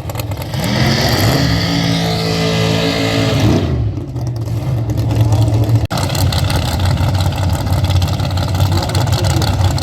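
Drag racing car engine revving up and held at high revs, then dropping off about three and a half seconds in, followed by steady, loud engine noise.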